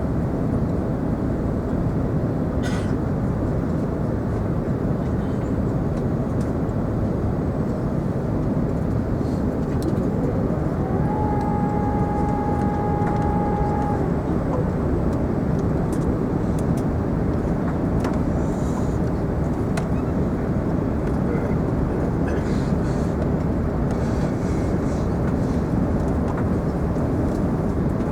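Steady low rumble of cabin noise inside a British Airways Airbus A380 airliner. A steady high tone sounds for about three seconds partway through.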